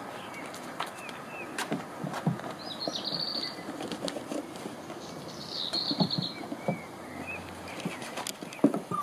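Small birds chirping, with two short rapid trills about three and six seconds in. Underneath, scattered clicks and rustling from puppies moving about on a crinkly plastic tarp.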